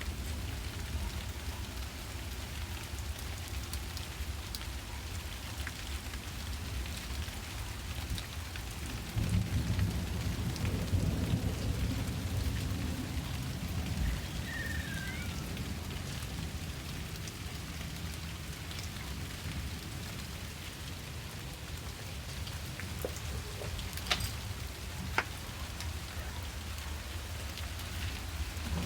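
Steady rain falling, with a low rumble of distant thunder swelling about nine seconds in and fading over several seconds. A few sharp drips stand out near the end.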